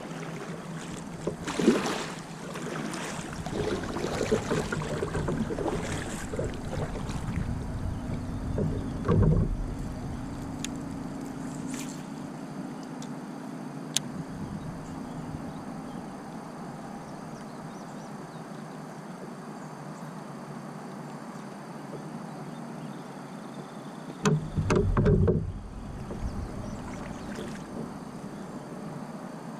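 A kayak on the water, with a steady wash of water and hull noise and a few louder thumps.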